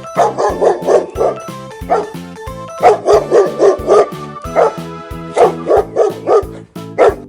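Dog barking in quick runs of several barks, with short pauses between the runs, over children's background music.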